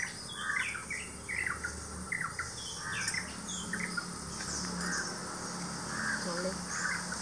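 Several birds chirping in short, quick notes, scattered all through, over a faint steady low hum.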